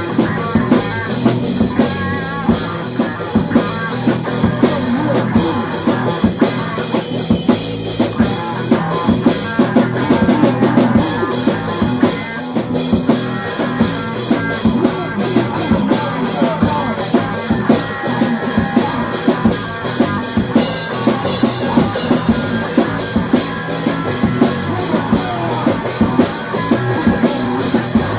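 Instrumental rock music with a drum kit keeping a steady beat and guitar, without singing.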